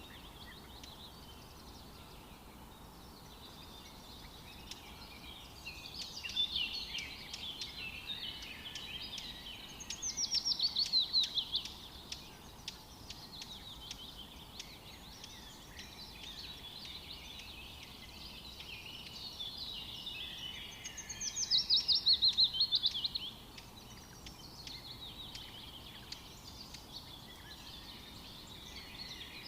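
Songbirds singing with continuous chirping and twittering. Twice, about ten seconds apart, a louder song stands out: a quick run of notes falling in pitch over about two seconds.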